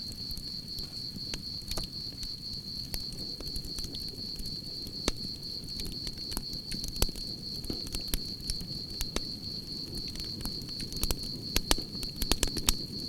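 Campfire crackling, with a low steady roar of burning and frequent sharp pops that come thicker and louder near the end. Crickets chirp in a continuous high, steady trill behind it.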